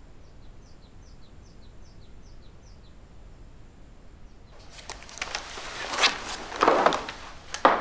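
A small bird chirping: short falling chirps in a quick series. About halfway through, a burst of rustling and handling noise starts and grows loudest near the end.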